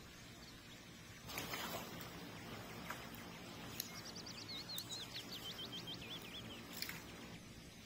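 A small songbird sings a short phrase of quick, high chirps and trills in the middle, over a few sharp clicks and a brief rustling noise about a second in.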